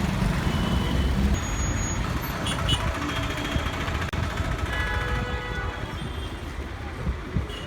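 Road noise from a moving vehicle: a steady low rumble with traffic sounds, and a few faint short tones above it.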